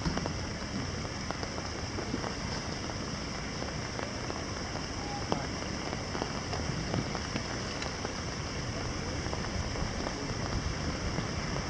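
Rain falling on canal water: a steady hiss of rain on the surface with scattered small drop ticks, over a low, distant city rumble.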